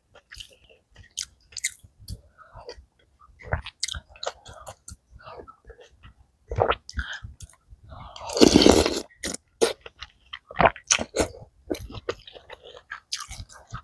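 Close-up chewing and crunching of a mouthful of malatang, with repeated short crunchy bites and wet mouth sounds. About eight seconds in, there is one louder, noisier burst lasting about a second.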